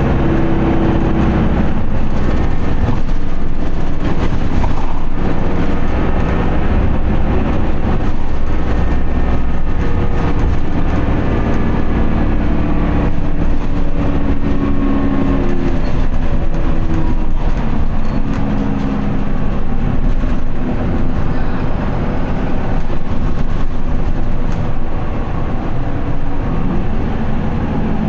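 Isuzu QDG-LV290N1 city bus's four-cylinder turbo diesel engine heard from inside the bus while driving, its pitch falling and rising again several times as the bus eases off and pulls away, with the transmission held in gear under POWER mode.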